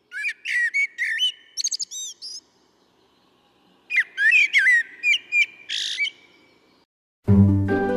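A songbird sings two phrases of varied chirping notes with quick rising and falling slides, each about two seconds long, with a pause between them. Music comes in near the end.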